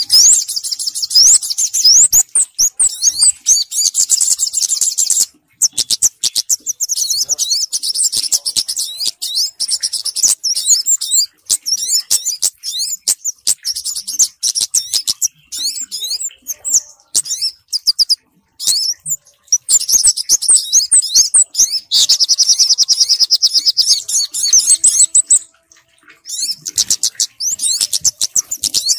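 Small-bird luring calls of the kemade and sogok ontong mixed together: rapid, high chirps and quick sweeping notes in dense runs, broken by a few short pauses.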